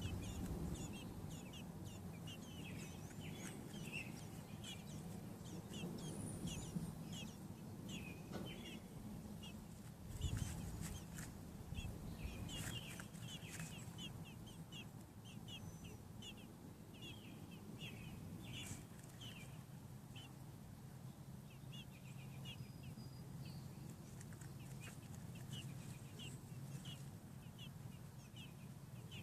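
American robin nestlings peeping: many short high chirps in quick succession, with a few soft knocks near the middle, over a low steady hum.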